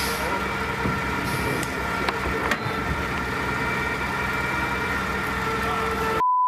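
A heavy engine idling steadily, an even low hum with a few steady whining tones over it and a couple of faint knocks. The sound cuts out for a moment near the end.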